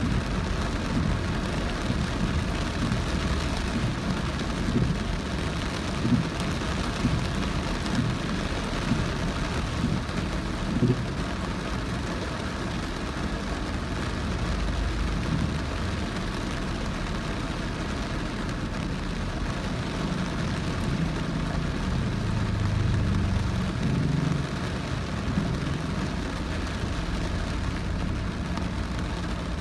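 Car driving through very heavy rain: the rain's steady hiss and the wet-road noise, with scattered low thumps in the first half and a low drone that swells briefly about two-thirds of the way through.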